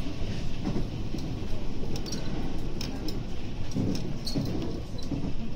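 Interior running noise of a JR West 521 series electric train: a steady low rumble of wheels on rails, with scattered light clicks.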